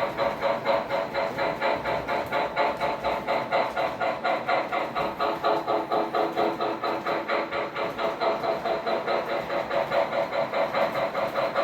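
Model steam locomotive's sound system chuffing in a quick, even rhythm, heard as a small speaker sound with no deep bass.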